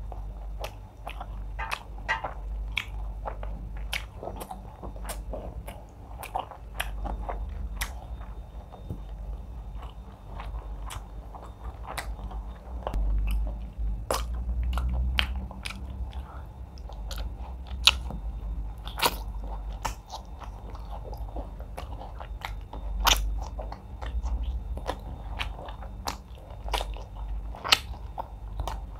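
Close-miked eating sounds: steady chewing with many wet mouth clicks and smacks as fufu dipped in egusi soup is eaten by hand, with a few low thuds along the way.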